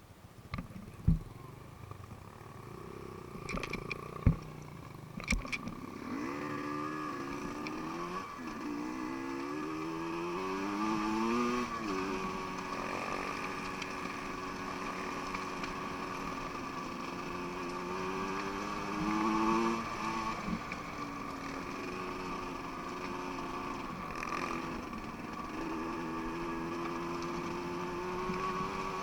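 Dirt bike engine running, its pitch rising and falling again and again as the throttle is opened and closed. A few sharp knocks come in the first few seconds before it.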